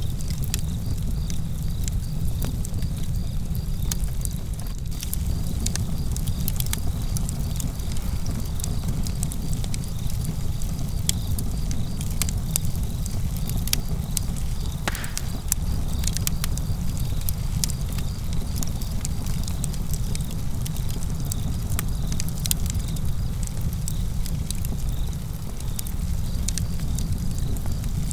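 Outdoor campfire burning, with frequent sharp crackles and pops of the burning wood over a steady low rumble. Crickets chirp steadily in the background.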